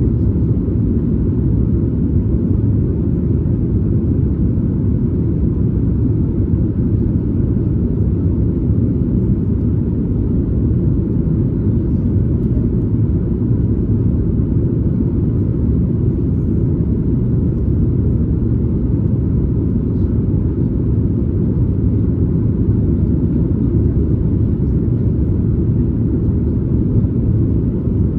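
Steady low rumble inside the cabin of a Boeing 737 MAX 8 in flight: the CFM LEAP-1B engines and rushing air, heard from a window seat just behind the wing.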